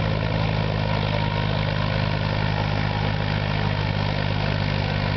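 SAME Tiger 60 4x4 tractor's diesel engine running steadily at an even speed.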